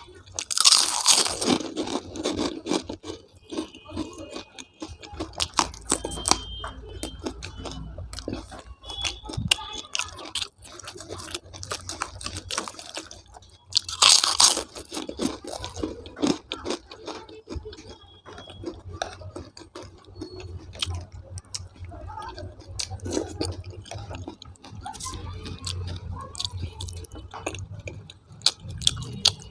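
A person eating close to the microphone: steady chewing with many small crunches, and two loud crunchy bites, about a second in and about fourteen seconds in.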